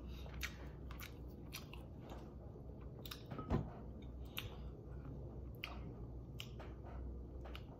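Close-up chewing of chicken with wet mouth clicks, while fingers pick at the meat, in irregular bites. A single louder knock comes about three and a half seconds in.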